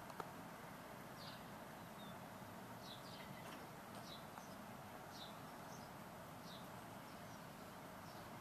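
Faint outdoor ambience: a small bird chirping short, high, falling notes about once a second over a steady background hiss, with one sharp click just after the start.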